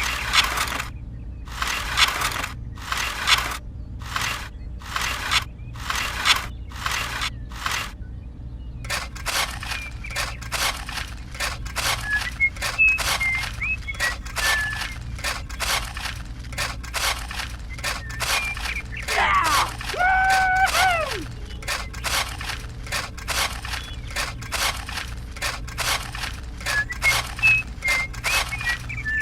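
Rhythmic rasping strokes of a hand tool working wood, slow at first, about one stroke a second, then quicker, about two a second, from around nine seconds in. Faint bird chirps and a short pitched call near the middle.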